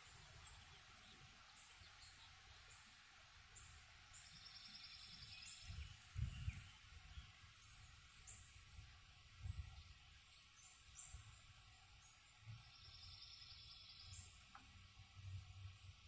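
Faint birdsong: short high chirps again and again, and twice a rapid trill lasting about a second and a half. Low rumbles on the microphone, the loudest about six seconds in.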